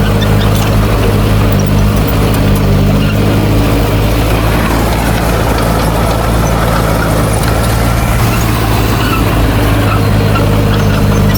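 Heavy diesel engine of an earthmoving machine running steadily at an unchanging speed, loud, with faint clicks and rattles over it.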